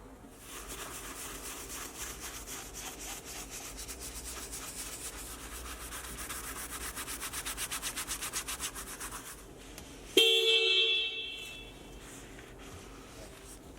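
Rapid, rhythmic scrubbing of a brush or pad on a surface for about nine seconds, then a sudden short car horn blast, the loudest sound, which fades out over about a second and a half.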